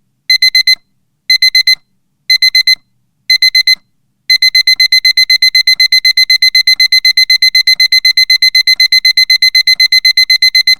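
Digital alarm clock beeping at a high pitch, signalling that the countdown has run out. It beeps in quick bursts of four once a second, then about four seconds in breaks into fast, unbroken beeping.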